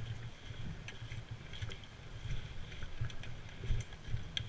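Low rumble of wind or microphone handling, with scattered faint clicks and ticks at irregular intervals.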